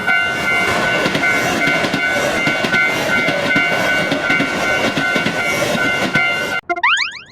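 Train passing over a railroad crossing: wheel rumble and clickety-clack over the steady tones of the crossing alarm. Both cut off suddenly near the end, followed by a brief rising sweep.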